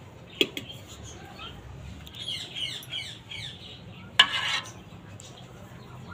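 Small birds chirping in a quick run of short, falling chirps for about a second and a half. A couple of light clicks come about half a second in, and a sharp clatter about four seconds in is the loudest sound.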